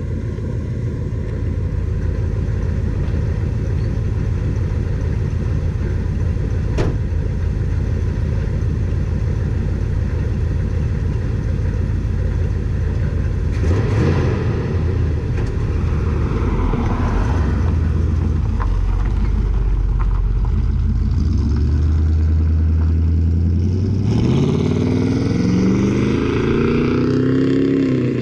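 Chevy 350 V8 of a 1974 Chevy K20 pickup running through true dual straight pipes with glasspack mufflers: a steady low rumble for most of the time, then the engine accelerating, its pitch climbing over the last several seconds and dipping just before the end.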